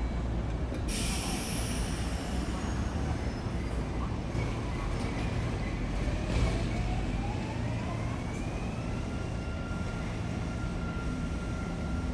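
Electric train pulling away from a station platform, over a steady low rumble. A sudden hiss of air, typical of brakes releasing, comes about a second in. From about halfway through, the motor whine rises in pitch and then levels off.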